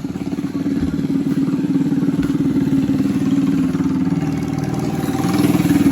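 Small minibike engine running steadily at a fast idle, a little louder near the end.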